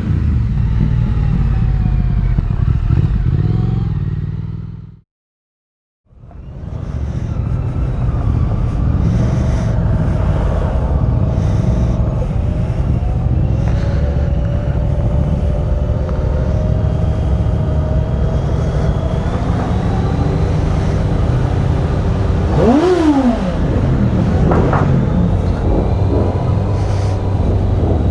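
Motorcycle engine and wind noise heard while riding, steady and loud, fading out to silence about five seconds in and fading back up a second later. Near the end an engine pitch dips and rises again once.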